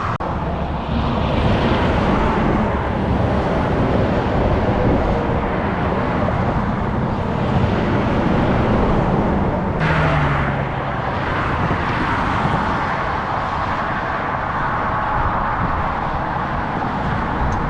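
Steady road traffic noise: vehicle engines and tyres on the road making a constant rushing sound, with a short low hum and a lift in the higher noise about ten seconds in, as from a passing vehicle.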